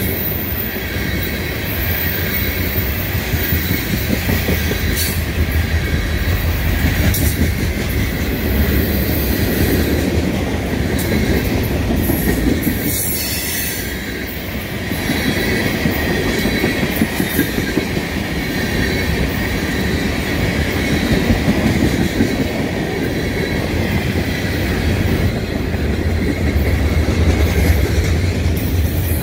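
Freight train of tank cars and covered hoppers rolling past close by: a steady rumble of steel wheels on rail with a faint high wheel squeal and a few sharp clacks as the wheels cross rail joints.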